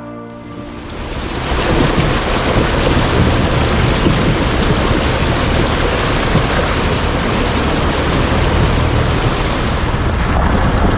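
Floodwater of the swollen Xong River rushing past, a steady loud roar of water that swells in during the first second or so as music fades out.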